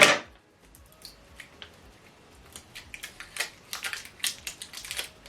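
Small plastic clicks and taps as batteries are handled and fitted into a remote control's battery compartment, with one louder knock right at the start and a busy run of short clicks in the second half.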